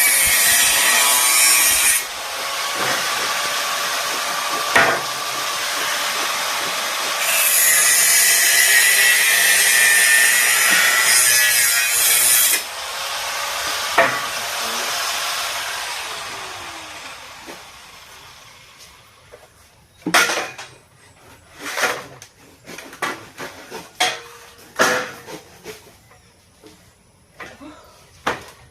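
Electric welding arc crackling and hissing in long runs, loudest in the first two seconds and again from about seven to twelve seconds, then fading out. From about twenty seconds on there are a dozen or so separate sharp knocks.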